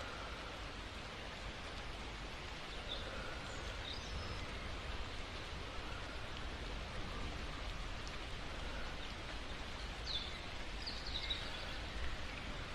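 Steady rain falling, an even hiss of raindrops, with a few short high chirps about a quarter of the way in and again near the end.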